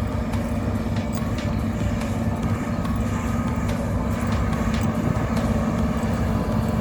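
Heavy diesel construction machinery running steadily at asphalt paving work, a constant engine drone with a low rumble and a few faint ticks.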